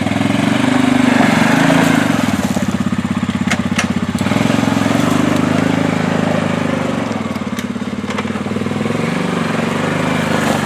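A quad (ATV) engine running steadily as it is ridden, its pitch rising and falling a little with the throttle, with a few light knocks.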